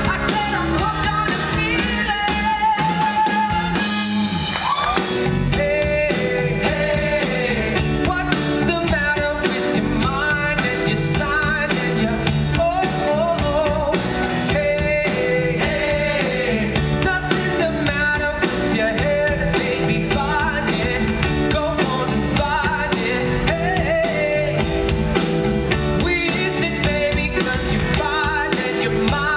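Live rock band performing a pop-rock song with a lead singer, drums and guitar.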